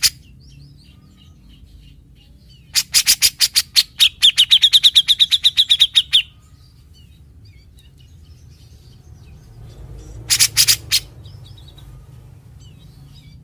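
Grey-cheeked bulbul (cucak jenggot) singing. A burst of harsh rasping notes, the bird's typical 'besetan', runs straight into a fast run of repeated high notes for about two seconds. A second short rasping burst comes near the end.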